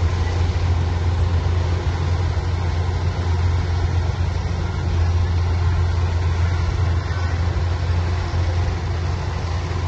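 A machine's engine running steadily with a deep, even hum.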